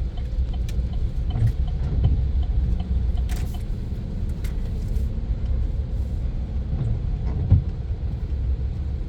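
Low, steady rumble of a pickup truck heard from inside the cab as it drives off, with a single sharp knock about seven and a half seconds in.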